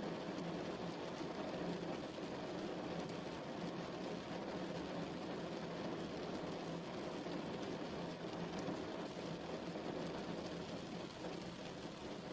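Steady rain falling, an even wash of noise with a few faint drop ticks.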